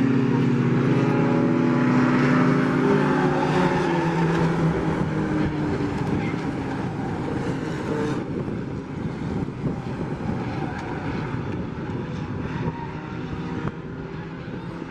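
Race trucks' engines running at speed on a short oval. At first a strong engine drone sinks slightly in pitch; after about eight seconds it turns into rougher, fainter engine noise.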